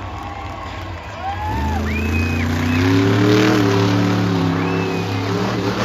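Monster truck engine revving up about one and a half seconds in, then held at high revs.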